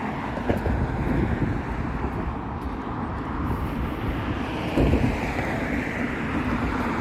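Steady outdoor rumble of passing vehicle traffic, with wind buffeting the microphone.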